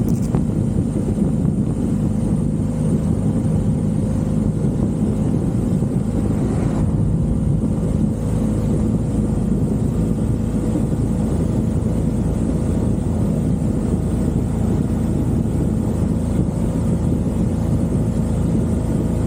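Motorcycle engine running at a steady speed while riding, a constant low drone.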